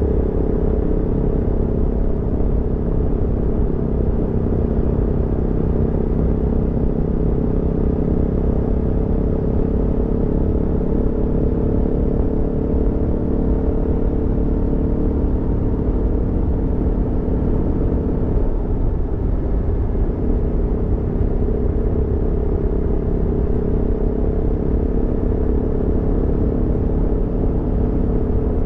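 Aprilia Tuono V4 motorcycle's V4 engine running at steady riding revs, heard from the rider's seat with a low rush beneath it. About two-thirds of the way through, the engine note dips briefly, then settles back to a steady pitch.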